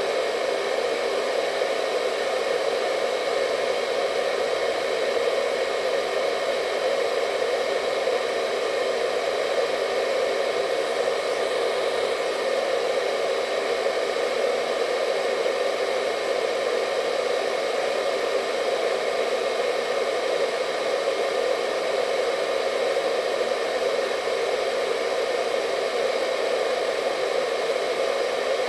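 Hair dryer running steadily: an even whooshing hum centred low-mid, with faint steady whining tones above it.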